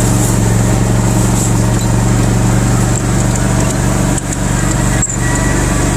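Engine running steadily at constant speed, with a brief dip in the sound about four seconds in and again about a second later.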